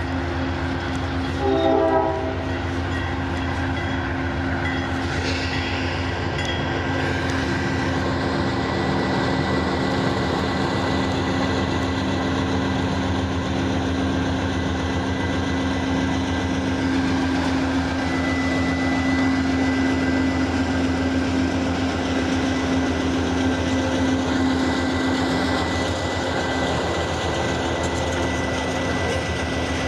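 Train running with a steady, heavy diesel hum, a brief horn blast about two seconds in.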